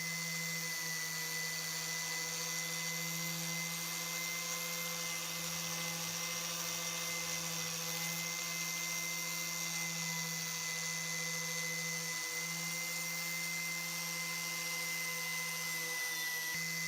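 A small electric power tool running steadily at constant speed, a level whine with a hiss over it.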